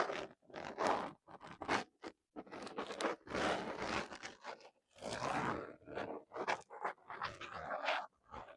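Bathroom items being handled: a run of irregular scraping and crinkling strokes, each a fraction of a second to over a second long, with short pauses between.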